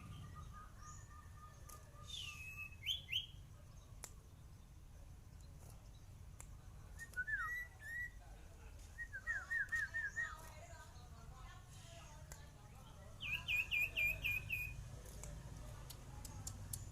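A sirpu songbird singing in short bursts of quick, whistled notes, each burst a second or two long with pauses between; the last burst, near the end, is a rapid run of repeated notes.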